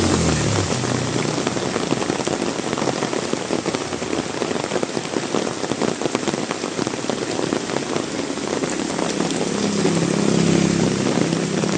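Heavy rain falling steadily, with many close, sharp drop hits. A low engine hum is heard briefly at the start and again about ten seconds in.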